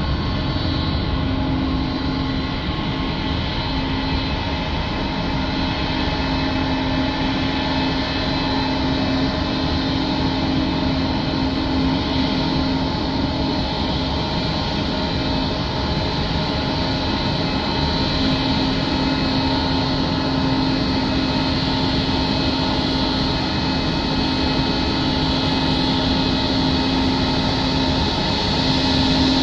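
Jet airliner engines running steadily: a continuous even noise with a constant low hum, no clear rise or fall in level.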